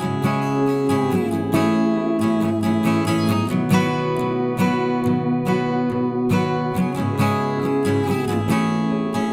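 Background music: acoustic guitar played with strummed and plucked chords at a steady, moderate rhythm, with a few sliding notes.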